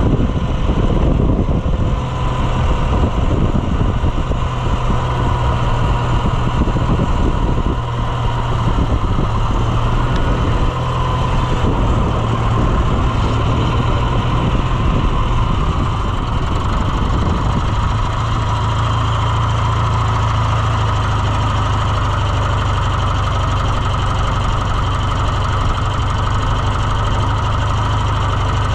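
Farm tractor engine running steadily, settling to an even idle about eighteen seconds in.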